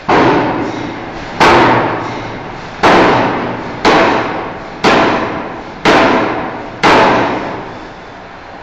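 Forging hammer striking a steel bar: seven heavy blows about a second apart, each ringing and dying away before the next.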